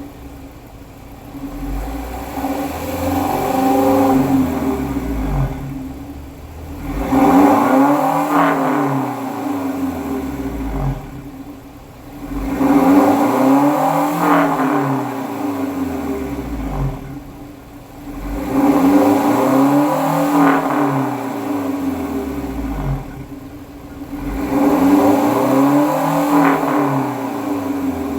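Toyota Town Ace van's 1.5 L four-cylinder engine revving through an aftermarket header, metal catalytic converter and loud-version single-box, single-exit muffler. The engine is blipped about five times, roughly every six seconds, each rev rising and dropping back to idle.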